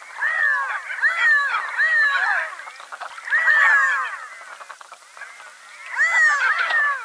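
Redhead ducks calling: clusters of short, downward-arching calls that overlap one another. Four bursts come about a second apart, then a pause, then another burst near the end.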